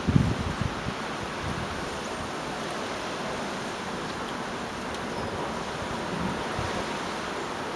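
Gale-force storm wind blowing in a steady rush, with a brief low buffet of wind on the microphone right at the start.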